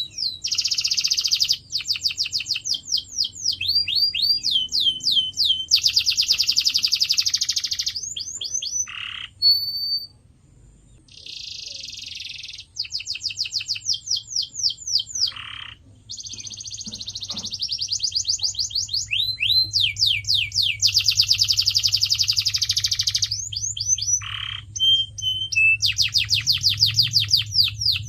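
Domestic canary singing: runs of rapid, repeated high sweeping notes alternating with dense buzzy rolls, broken by short pauses, over a faint low hum.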